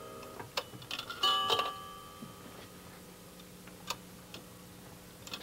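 Coins being put into a pay telephone: a few sharp clicks, and a bell-like chime about a second in that rings and fades away, the phone's signal that a coin has been deposited.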